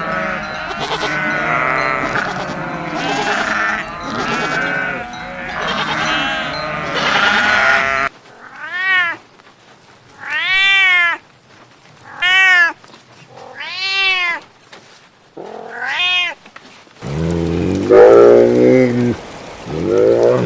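Animal calls in three stretches: a chorus of many overlapping bleats for the first eight seconds, then about six separate cries, each rising and falling in pitch, then deeper calls from about three seconds before the end.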